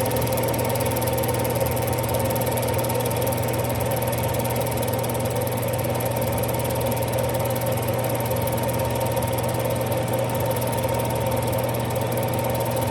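Smithy lathe running steadily under power with an even mechanical hum, while a knurling tool rolls a pattern into a brass peg turning in the chuck.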